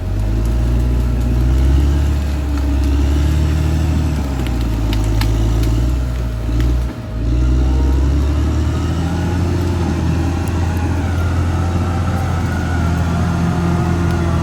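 Caterpillar D6R XL bulldozer's diesel engine working steadily. There are a few sharp cracks or clanks about five seconds in, and the engine note dips briefly about seven seconds in.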